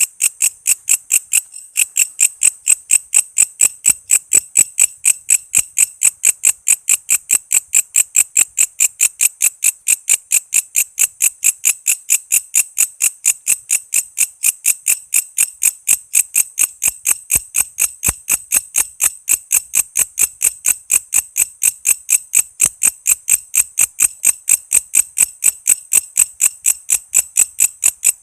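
Walang kece calling: a steady, rhythmic train of short, high-pitched chirp pulses, about four to five a second, with a brief pause about a second and a half in.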